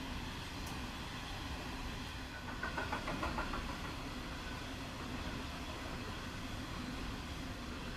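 Coal hopper wagons rolling past on steel rails, a steady rumble with a short run of rapid wheel clicks about two and a half seconds in, the loudest part.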